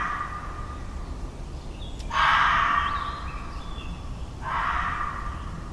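Red fox giving hoarse, harsh calls, each about a second long and spaced about two and a half seconds apart.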